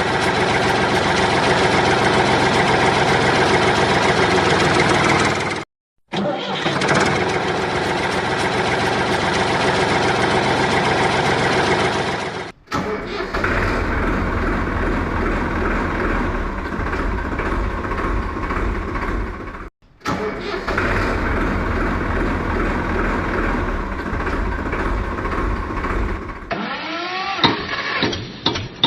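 Tractor engine running steadily, with a low chugging pulse in the middle stretches. The sound cuts off and restarts abruptly several times where clips are joined.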